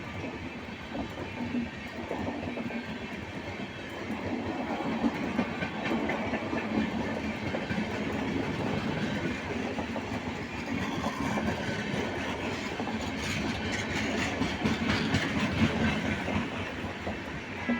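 Express passenger train rolling past, its wheels clicking and clattering steadily over the rail joints, growing busier and a little louder in the second half.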